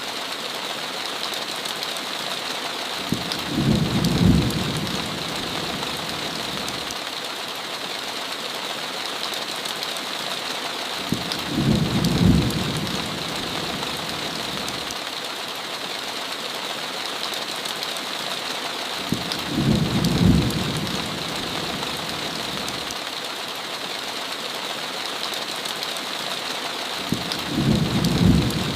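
Steady heavy rain with a hiss, broken by a short low rumble of thunder about every eight seconds, four times, each swelling and fading within a second or two.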